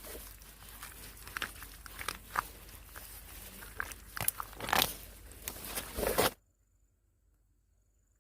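Irregular crunching and crackling, a quick run of dry snaps and rustles, that cuts off suddenly about six seconds in, leaving only a faint steady high insect-like whine.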